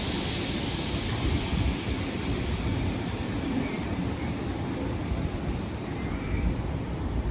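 Ex-Tokyo Metro Chiyoda Line commuter electric train running along the track, a steady rumble of wheels on rail with a high hiss that slowly fades.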